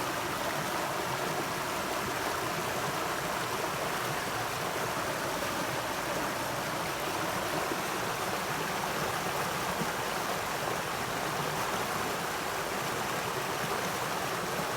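Stream of water flowing and splashing over rocks, a steady rushing with no let-up.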